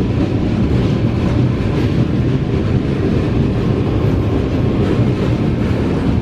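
Steady rumble of a passenger train running at speed, with wheels on the rails, heard from inside the coach.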